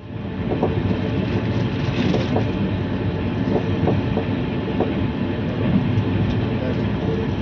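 A moving train: a steady rumble with repeated clacks of the wheels running over the rails.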